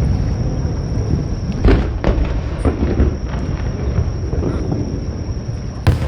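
Aerial fireworks going off: deep booms rolling and echoing, with sharp cracks about a second and a half in, again at two seconds, and once more near the end.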